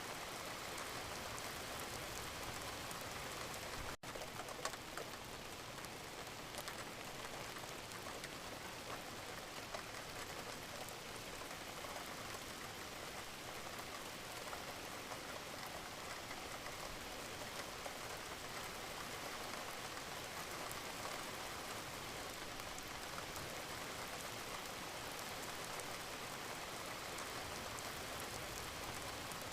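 Wood fire crackling in a fireplace: a steady hiss dotted with small pops and ticks, with a brief dip about four seconds in.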